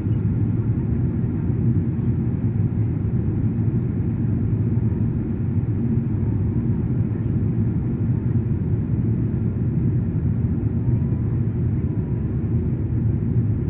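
Passenger airliner on its landing approach: steady, even rumble of engine and airflow noise, deep and low in pitch.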